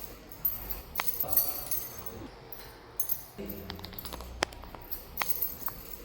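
Light metallic jingling and clinking, with a few sharp clicks scattered through.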